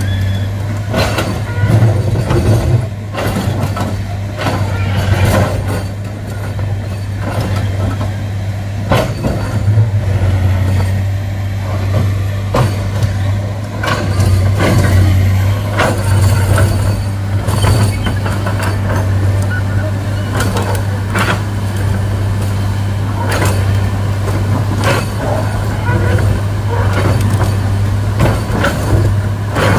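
Heavy diesel engine running steadily with a deep hum, and many short knocks and clanks over it throughout.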